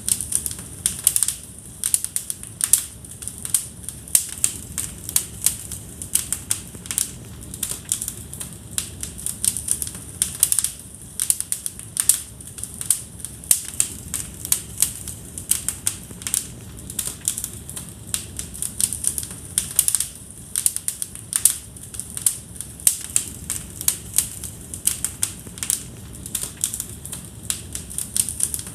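Wood fire crackling in a fireplace: many sharp, irregular snaps and pops, several a second, over a low steady rush of the burning logs.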